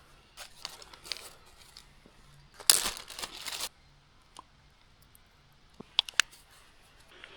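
Packaging being handled, crinkled and torn open in short scrapes, with one louder tearing rush of about a second near the middle and a few light clicks near the end.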